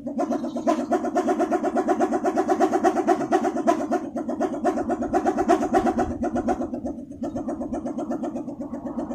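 Balinese pindekan, a wooden wind-driven propeller on a pole, spinning in the wind and giving off a fast, pulsing hum. The hum swells in at the start and dips briefly about seven seconds in.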